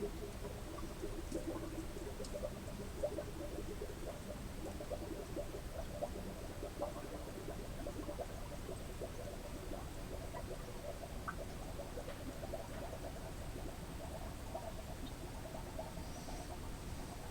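Water from a garden hose gurgling and bubbling as it runs into the Cat D6B engine's coolant passages, a fill test to see whether the engine holds water.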